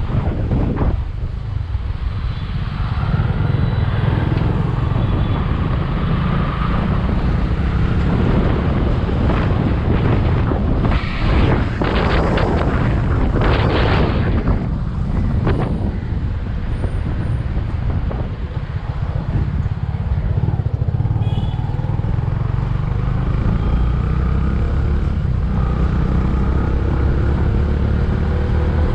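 Bajaj V15's single-cylinder engine running on the move, its pitch rising and falling with the throttle, under heavy wind rush on the helmet or bike-mounted camera microphone. A louder rushing stretch comes about eleven to fourteen seconds in.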